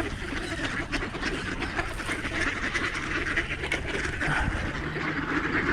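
A flock of ducks quacking and chattering steadily, many birds calling over one another as they crowd in for scattered seed.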